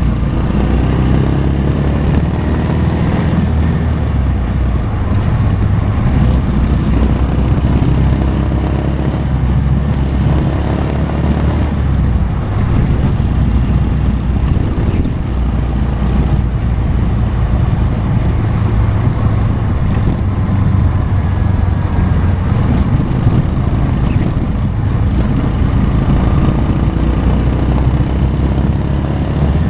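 Motorcycle engine running under way, its pitch rising and falling with the throttle, over steady wind and road noise.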